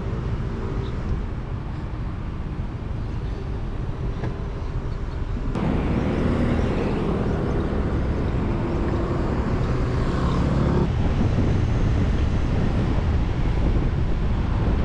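Off-road vehicle driving, a steady engine drone under road and wind noise. The sound changes abruptly twice, about five and eleven seconds in.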